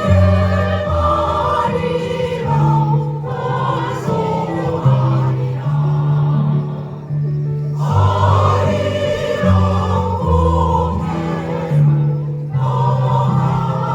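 Choir singing a song together over a musical accompaniment with held low notes.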